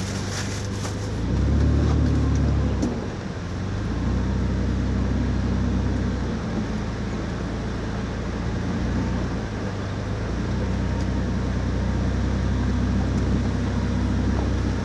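A motor vehicle's engine running with a steady low drone. It grows louder for a second or so about one and a half seconds in, then settles back.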